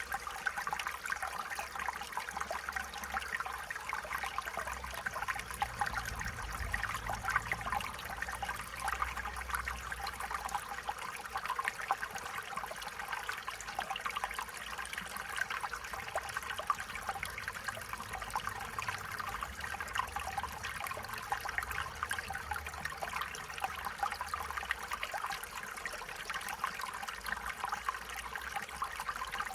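Stream water flowing and trickling steadily, a continuous babbling of small splashes and gurgles.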